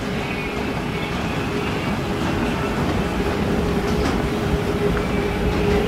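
Steady rumble inside a moving vehicle, with a steady hum over it.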